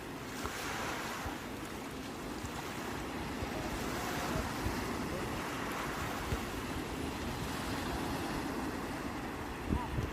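Sea waves breaking and washing up the shore, swelling and ebbing every few seconds, with wind rumbling on the microphone.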